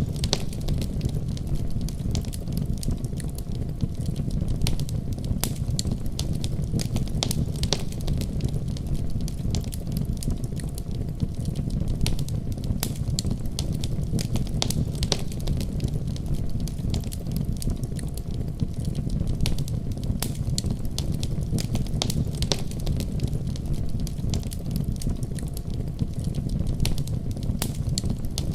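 Wood fire crackling, with frequent sharp irregular pops and snaps, over a steady deep rumble of storm wind.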